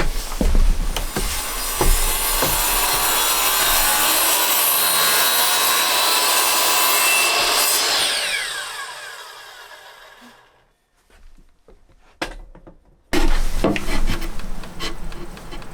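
A power saw cutting wood for several seconds. The blade then spins down with a falling whine as it fades, about eight seconds in. After a short quiet, wood is knocked and handled.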